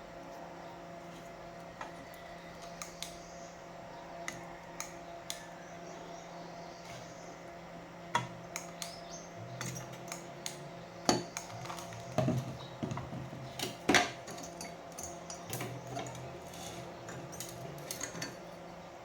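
Small metal clinks and taps from tools and parts being handled, sparse at first and coming thicker and louder about halfway through, over a faint steady hum.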